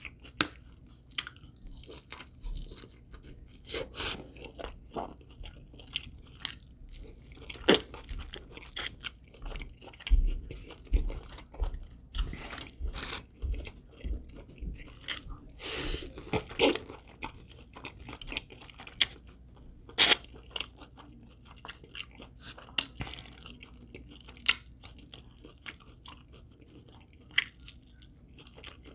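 Close-miked eating of crispy fried chicken wings: sharp, irregular crunches between stretches of chewing, with a few low bumps about ten to fourteen seconds in.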